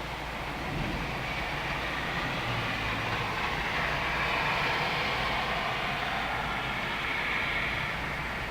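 Long rolling rumble of thunder that builds from about a second in, peaks midway and slowly fades, over a steady hiss of storm rain.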